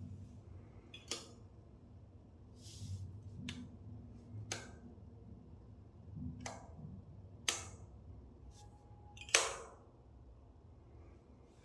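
A handful of sharp clicks and light knocks, roughly every two seconds, over a low room hum; the last and loudest, near the end, rings on briefly.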